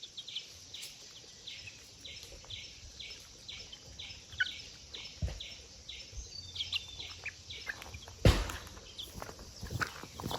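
A bird chirping over and over, about two to three short chirps a second, with a couple of dull thumps, the loudest about eight seconds in.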